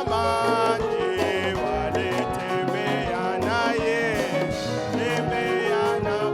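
Worship band music: plucked electric guitar lines over bass and drums, with a steady beat.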